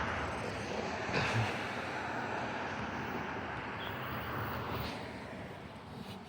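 Road traffic passing: a steady rush of vehicle and tyre noise that fades away near the end.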